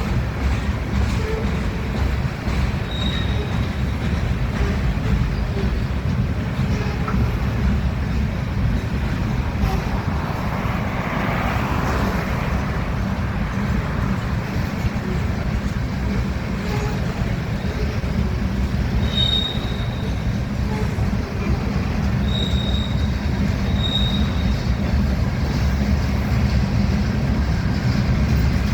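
Loaded gravel cars of a freight train rolling past: a steady rumble of wheels on rail, with a few short high wheel squeals, most of them in the second half.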